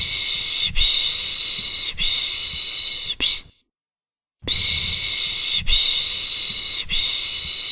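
A person making the 'piş piş' shushing sound to lull a baby: long rhythmic 'shh' breaths, each run broken into three or four strokes, one run stopping about three and a half seconds in and another starting after a pause of about a second.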